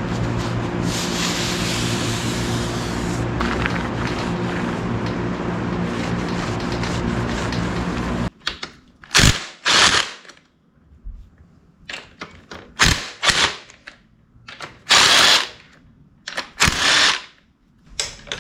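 A power tool runs steadily for about eight seconds, then cuts off abruptly. After that come about eight short, loud bursts of scraping or hissing noise, separated by quieter gaps.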